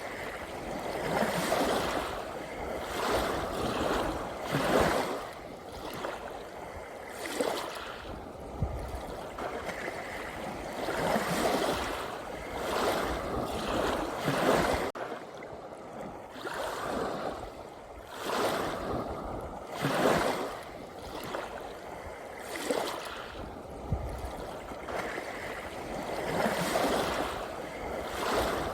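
Sea waves washing and lapping, a continuous rush of water that swells and eases unevenly every second or few.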